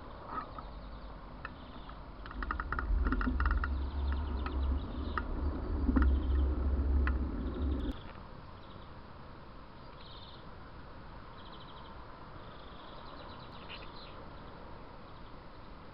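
Small birds chirping, with short high calls and quick trills scattered throughout. For the first half a loud low rumble lies under them, then cuts off abruptly about eight seconds in.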